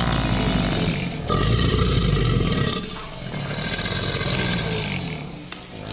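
A large animal roaring and growling in several long, rough calls, one after another.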